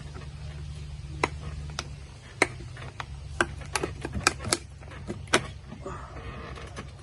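Scissors snipping through a hard plastic beach bucket: about ten sharp clicks and snaps at an irregular pace, bunched together around the middle, over a steady low hum.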